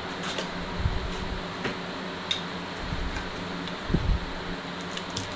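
A steady mechanical hum, like a shop fan, under scattered light clicks and knocks of hand work on engine parts, the loudest knock about four seconds in.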